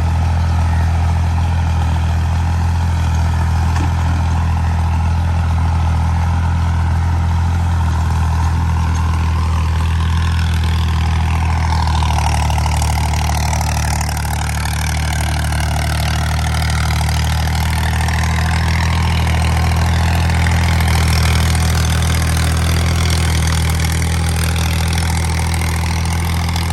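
Al-Ghazi 65 hp tractor's diesel engine running steadily while driving a rotavator through the soil.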